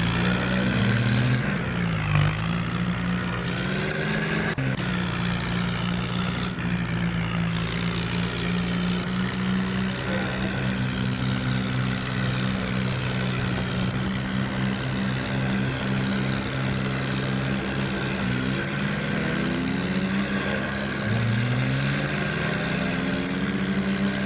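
A vehicle engine running steadily, its pitch dipping and rising briefly about two seconds in, then rising again in a few glides about three quarters of the way through.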